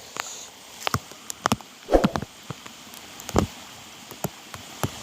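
Steady rain falling, with irregular close taps and knocks from drops hitting nearby.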